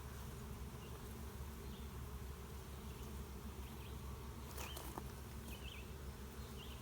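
Honeybees buzzing around an open hive, a steady low hum that does not let up, with one brief sharp click about four and a half seconds in.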